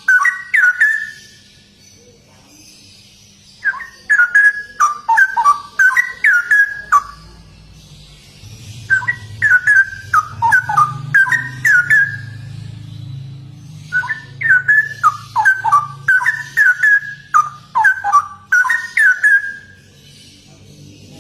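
Straw-headed bulbul (cucak rowo) singing: loud bouts of rapid, rich whistled notes that drop in pitch, several bouts a few seconds apart with short pauses between.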